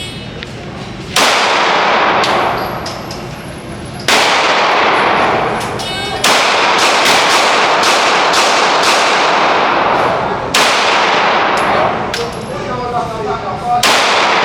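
Rifle shots at a steel target: about a dozen, two spaced a few seconds apart, then a quick string of several, then a few more, each with a long echoing tail and a metallic ring from the steel being hit.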